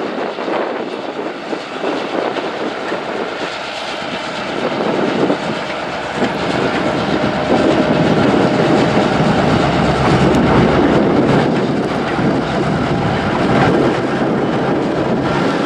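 Train rolling past at close range, a steady rumble of wheels on rail that grows louder about halfway through.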